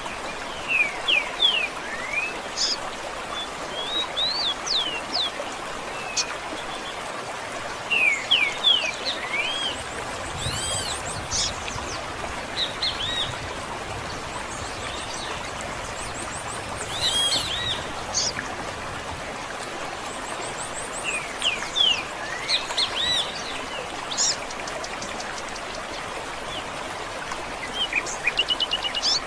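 Several songbirds chirping and singing in short sweeping phrases, over a steady background hiss like running water.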